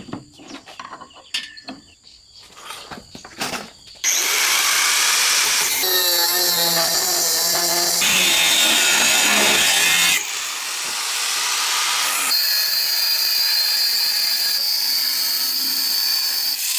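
A few light clicks and knocks, then about four seconds in a power grinder starts abruptly against the steel of a forged knife blade, running loud and steady, with its pitch and tone shifting sharply several times.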